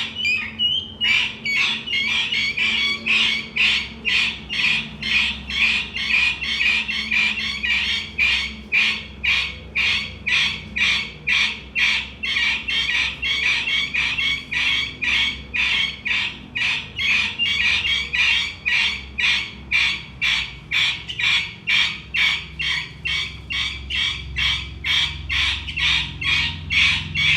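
Guinea fowl calling in a long unbroken run of evenly spaced notes, about two or three a second.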